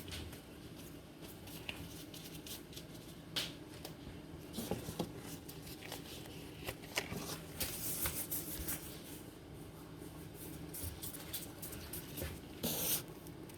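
Hands shaping cornmeal dumpling dough, with soft rubbing and scattered light knocks, over a faint steady hum.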